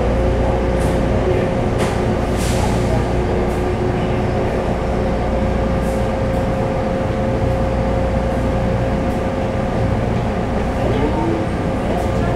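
Taipei Metro C301-type train, retrofitted with new propulsion equipment, running steadily between stations: a constant rumble of wheels on rail with an unchanging electrical hum from the drive.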